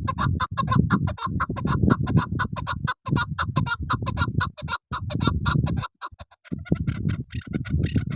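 Chukar partridge calling: a fast run of short, repeated clucking notes over a dense low rumble, breaking off briefly about six seconds in and then starting again.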